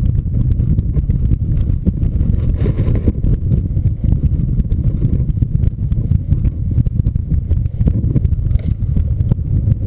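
Strong wind buffeting the microphone: a loud, uneven low rumble that swells and dips with the gusts.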